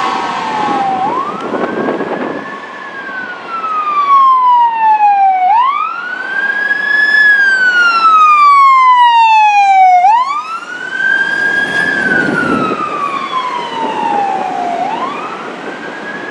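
Emergency vehicle siren on a slow wail: each cycle rises quickly, then glides down over a few seconds, repeating about every four and a half seconds.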